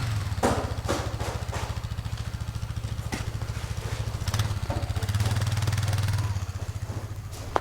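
An engine running at idle, its speed and loudness rising briefly near the start and again about five seconds in, with a few sharp knocks or clicks over it.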